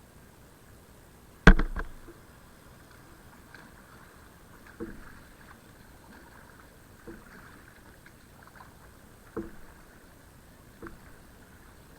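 Kayak paddling: paddle strokes come every two seconds or so, each with a light knock or splash. There is one sharp, loud knock about a second and a half in, likely the paddle striking the hull.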